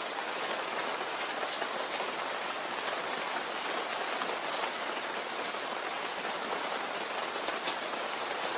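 Steady rain falling, an even hiss with scattered crisp ticks of individual drops.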